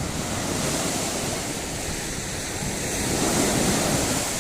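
Sea surf: waves breaking and washing in, swelling louder about three seconds in, with wind buffeting the microphone.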